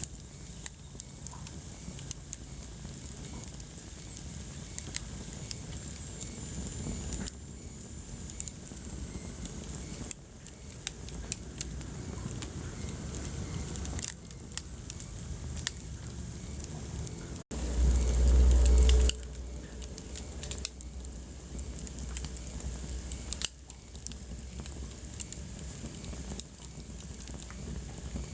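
Wood fire burning in a fireplace, crackling with many sharp pops over a low rumble of flames. A little past halfway through comes a brief drop-out, then a loud low rumble lasting about a second and a half.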